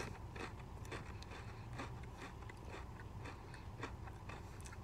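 A man chewing a mouthful of Pringles Scorching Wavy Loaded Nacho crisps with his mouth closed: a run of small, irregular crunches.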